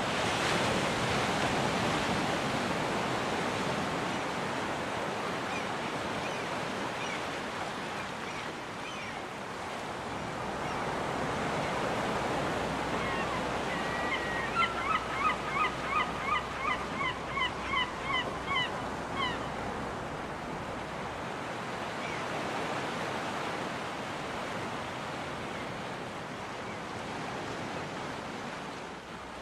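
Waves breaking and washing on a beach in slow swells. About halfway through, a gull gives a quick series of about a dozen laughing calls, two or three a second, over the surf.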